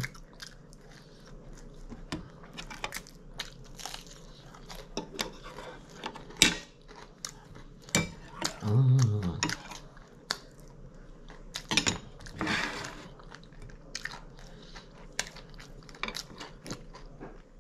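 A person biting and chewing food close to the microphone, with wet mouth sounds and crisp crunches coming in irregular short snaps.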